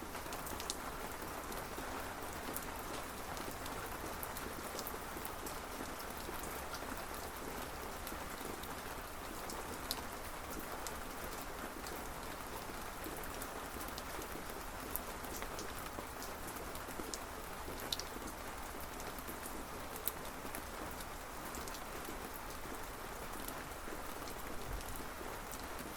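Steady rain falling, with a few sharper drop clicks scattered through it.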